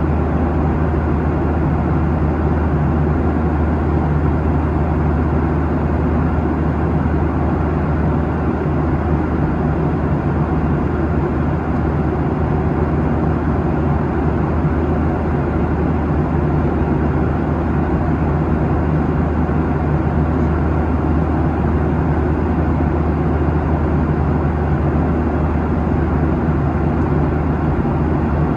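Steady cabin noise of a Boeing 737-800 at cruise, heard from inside the cabin: a low, even drone from its CFM56-7B engines blended with the rush of air along the fuselage.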